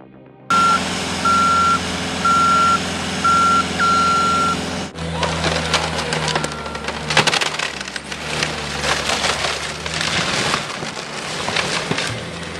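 Skid-steer loader's reversing alarm beeping about once a second over its running engine, then wood cracking and splintering repeatedly as the tree it is pulling on gives way.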